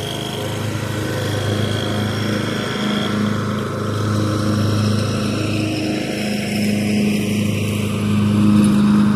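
Craftsman riding lawn mower's engine running steadily at mowing speed, its hum growing louder as the mower comes close, loudest near the end.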